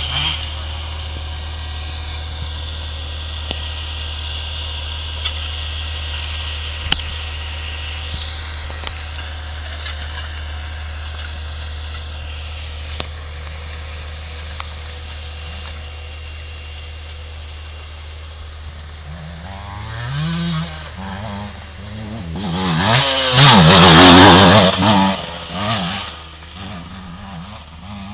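Motocross motorcycles running at a distance, then one dirt bike coming close, its engine revving up and down as it passes, loudest about 23 to 25 seconds in before fading away. A steady low hum and a few sharp clicks run underneath.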